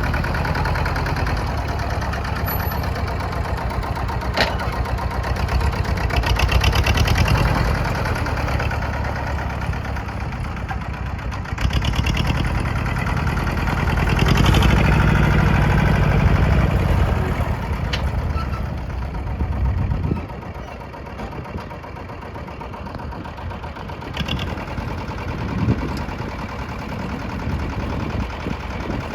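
Tafe 25 tractor engine running, swelling louder twice and then settling back to a quieter idle about two-thirds of the way through.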